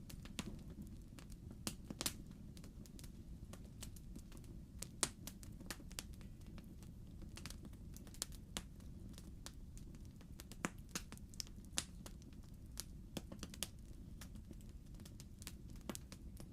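Wood fire in a fireplace crackling: irregular sharp pops and snaps over a steady low rumble, the loudest pop about five seconds in.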